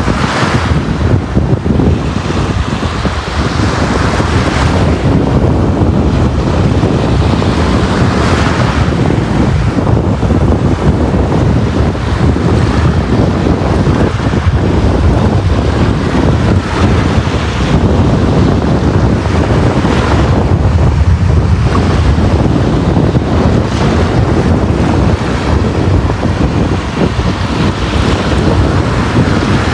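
Sea waves breaking and washing on a beach, a steady surf roar that swells every few seconds, with wind rumble on the microphone.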